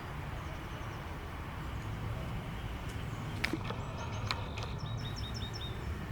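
A small songbird calling, a quick run of about five short high chirps a little past halfway, over a steady low background rumble.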